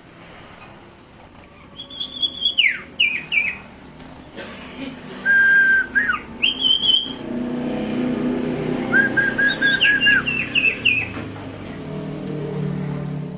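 Songbird called a 'sirtu' singing clear whistled phrases: held high notes that slide sharply down, and quick runs of short repeated notes. A low steady hum sits underneath from about halfway through.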